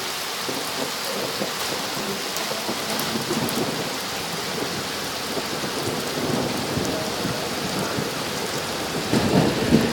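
Rain falling steadily, growing louder near the end.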